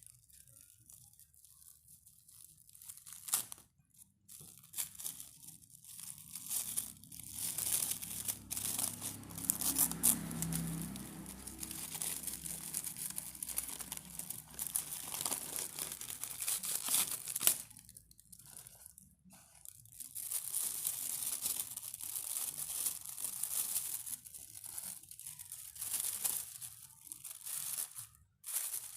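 Close-miked crinkling and tearing of the wrappers around bars of brem, in irregular bursts with short pauses.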